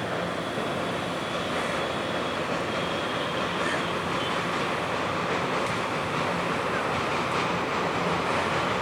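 Train running along the track, a steady rumble of wheels on rails that grows slightly louder.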